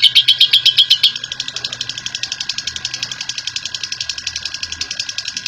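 Lovebird giving its long rapid chattering trill (ngekek), a fast even run of sharp repeated notes. About a second in it drops quieter and carries on slightly faster and higher.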